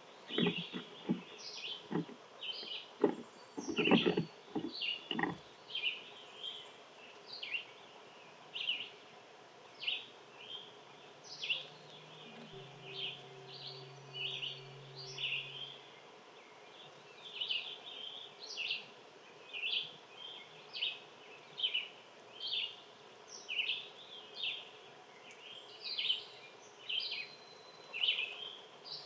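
Small birds chirping, short high chirps repeated about once a second without letup. In the first few seconds several sharp knocks sound over them, the loudest about four seconds in.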